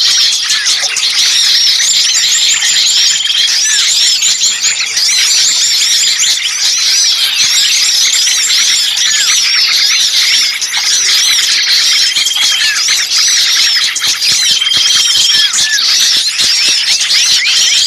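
A dense chorus of many small songbirds chirping and squeaking frantically over one another, with a few held whistled notes of about a second each. These are the agitated, alarm-like calls of 'trapped' small birds used as a lure recording to attract birds.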